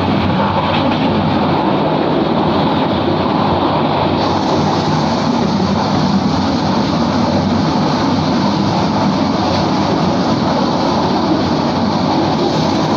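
Kurigram Express passenger train running at speed, heard from inside the carriage by an open window: a loud, steady noise of wheels on track and rushing air. The treble gets brighter about four seconds in.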